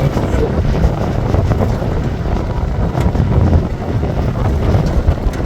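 Wind buffeting the microphone: a loud, uneven low rumble with no clear pitch.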